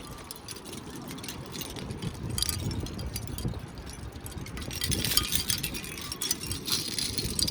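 Light metallic tinkling and clinking, growing busier from about five seconds in, over a low background rumble.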